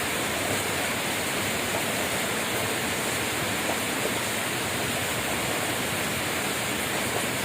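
Steady rainfall, an even hiss with no breaks or thunder.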